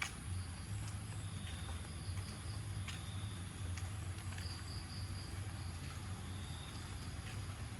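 Crickets and other insects trilling faintly, over a steady low rumble and a few scattered soft clicks.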